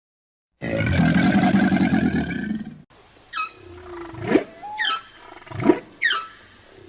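After half a second of dead silence, a large animal roars, one loud rough call of about two seconds. It cuts off, followed by a run of short, high chirps sweeping sharply downward, about one a second.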